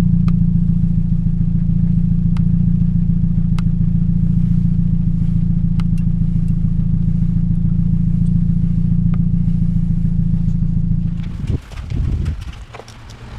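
Toyota Yaris 1NZ-FE 1.5-litre four-cylinder engine idling steadily with a misfire, which the owner puts down to a bad ignition coil on cylinder 3. It stops about eleven seconds in, followed by a few knocks.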